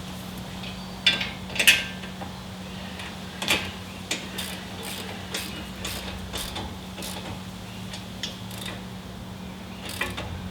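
Irregular sharp metallic clicks and clacks of hand tools working on the car's front suspension, about one every half second and loudest in the first two seconds, over a steady low hum.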